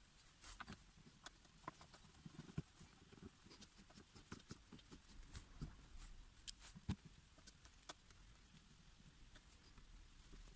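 Faint, irregular light clicks and knocks, with sharper knocks about two and a half seconds in and again near seven seconds.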